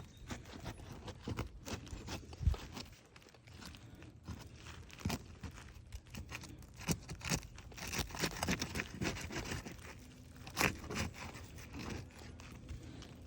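Fiberglass asphalt roof shingle being pried up and pulled loose: irregular scraping, crunching and tearing with sharp knocks, louder flurries about halfway through and again near the end.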